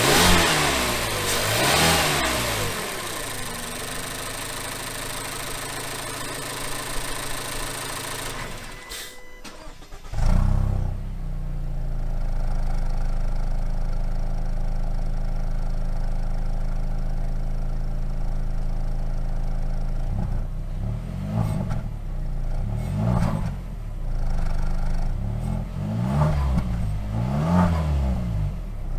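Mazda CX-5's 2.5-litre Skyactiv-G inline-four petrol engine is revved twice and settles to idle, then is switched off. About a second later it is started again, idles steadily, and in the last third is blipped in a series of short revs.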